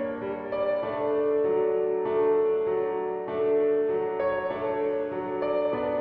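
Background piano music: slow, held notes and chords changing about once a second.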